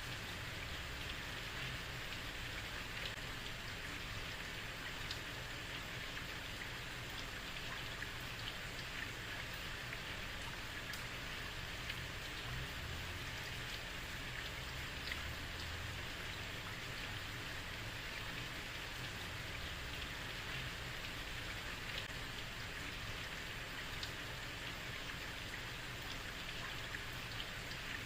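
Heavy rain falling steadily on a street: a dense, even hiss of rain with scattered sharper drop ticks and a low rumble underneath.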